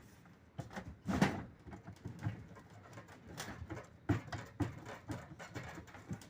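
Irregular knocks and clunks from the magnet rotor of an LG Inverter washer's direct-drive motor as it is worked loose on its shaft, held back by the pull of its magnets; the strongest knock comes about a second in.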